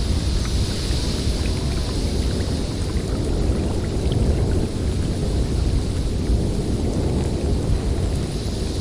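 Snowstorm wind blowing steadily, a deep rumble under a higher hiss that swells around the start and again near the end.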